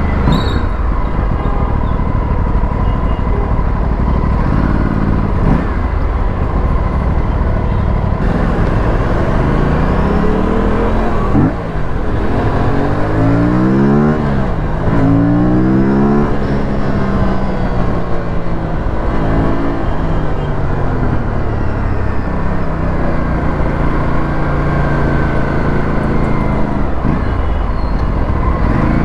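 Aprilia RS457's 457 cc parallel-twin engine and exhaust while riding, over a steady rush of wind and road noise. About halfway through, the revs climb and drop several times in quick succession.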